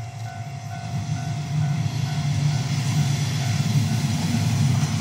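Diesel railcar approaching on the line, its engine and wheels rumbling louder as it nears. Over it a level-crossing warning bell chimes in a steady repeating beat, plainest in the first couple of seconds.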